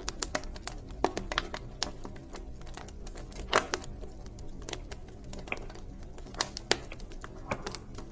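Wood fire in a fireplace crackling, with irregular sharp pops and snaps over a low steady rumble of the flames; the loudest pop comes about halfway through.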